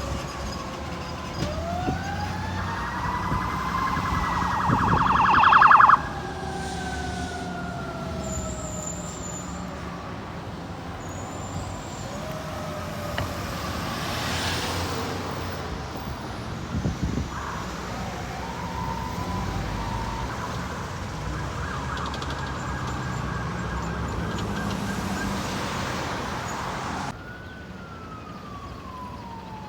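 Fire truck sirens: an electronic siren wailing in slow rising and falling sweeps, with a fast warble building to the loudest point about five seconds in. Road traffic rumbles underneath, and the sound changes abruptly twice, once about six seconds in and again near the end.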